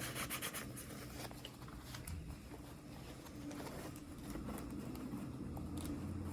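Hands handling plastic toy packaging: scratchy rustling and small irregular clicks, over a steady faint low hum.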